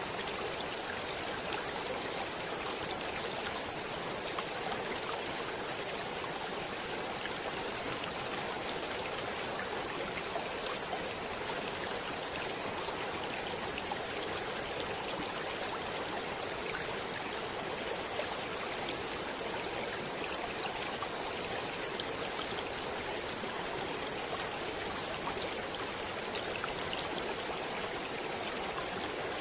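Stream water flowing steadily, an even rush with many small splashes and trickles and no change in strength.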